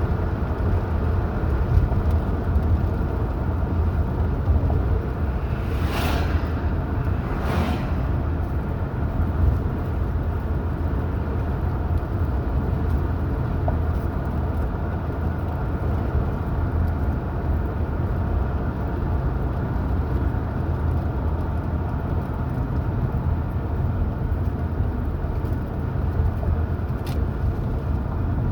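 A car driving along a highway: steady low road and engine rumble, with two brief whooshes about six and seven and a half seconds in.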